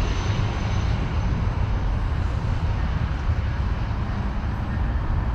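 Steady low rumble of an Amtrak passenger train running away down the track from the platform, with a faint high whine in the first second.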